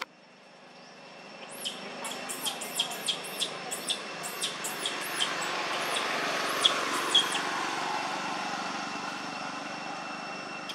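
A bird giving a quick series of about fifteen short, high chirps, each falling in pitch, two to three a second, spacing out near the end. Under them a broad rushing noise swells and then fades.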